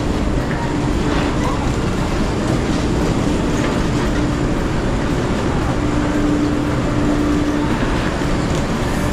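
Steady rumble and hum of an Amtrak Acela train standing at a station platform, with a steady droning tone that grows stronger for a couple of seconds partway through.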